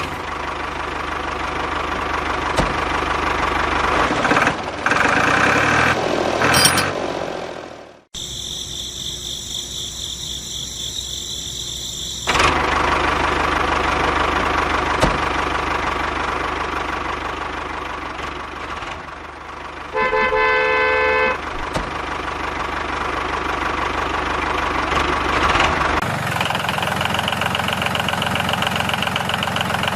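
Engine running steadily, broken off sharply about eight seconds in and later changing to a different steady running sound. A single horn honk lasting about a second sounds partway through.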